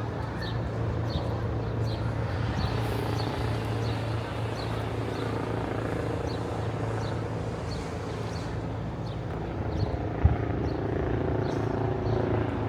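Outdoor urban ambience: a steady low hum like traffic or an engine, with a faint high ticking about twice a second throughout and a single brief knock near the end.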